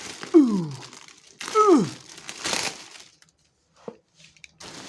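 Packaging being torn open and handled: bursts of crinkling and tearing wrapping in the first three seconds, with two short squeaks falling steeply in pitch near the start. After that the handling goes almost quiet, with a single click and another brief rustle at the end.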